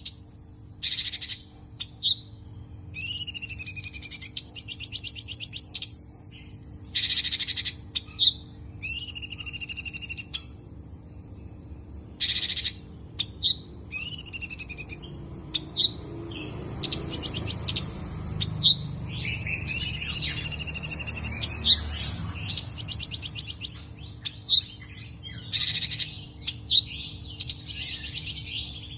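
A songbird singing in short repeated bursts of rapid buzzy trills and chirps, one every second or two, over a steady low hum. A low rumble swells in the middle and fades again.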